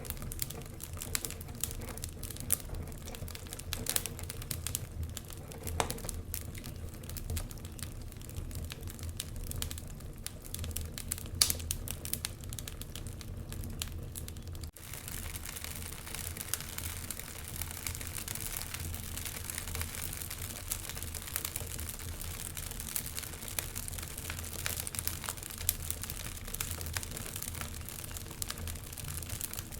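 Wood fire crackling in a fireplace: irregular sharp pops and snaps over a steady low rumble of burning. One pop a little past eleven seconds is the loudest. About halfway there is a brief dropout, like an edit, and then the crackle goes on.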